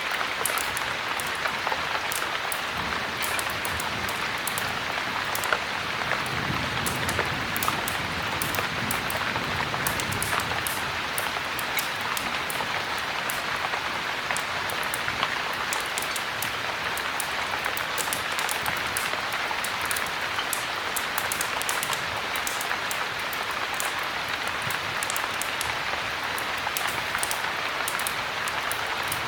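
Heavy rain falling steadily, with a wood fire crackling in a fireplace: frequent sharp pops and ticks over the even hiss of the rain.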